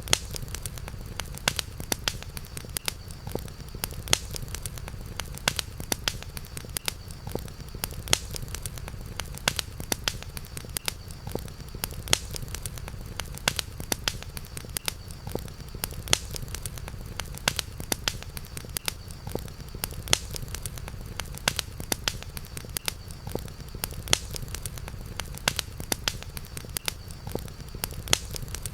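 Campfire crackling: sharp pops and snaps, several a second, over a steady low rumble, with a faint steady high-pitched drone behind it.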